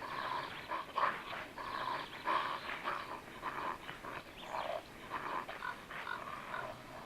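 Wolverines vocalizing: a run of short, rough, irregular calls.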